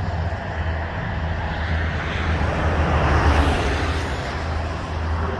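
Airbus A320neo airliner's jet engines heard from outside as a steady rush over a low rumble, swelling slightly about three seconds in.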